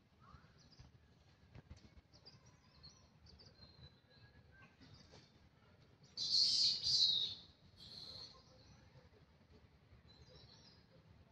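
Birds chirping, with a louder run of high chirps about six seconds in and a shorter one just after.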